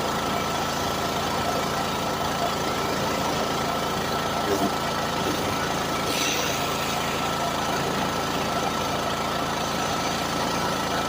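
An engine running steadily at idle, with a steady high tone over it and a short hiss about six seconds in.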